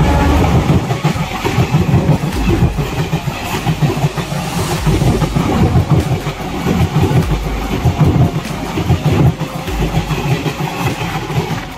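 Kanchankanya Express passing on the adjacent track, a loud, steady rumble of wheels and coaches going by.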